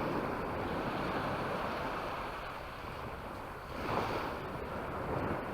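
Sea waves washing onto the shore in slow swells, one surge building about four seconds in, with some wind rumbling on the microphone.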